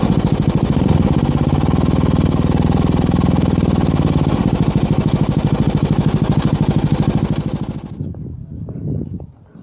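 Motorcycle engine idling with a rapid, even beat, then switched off about eight seconds in.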